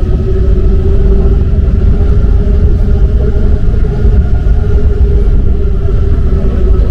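Rubber-tyred MP 05 metro train running steadily, a loud low rumble with a steady whine over it.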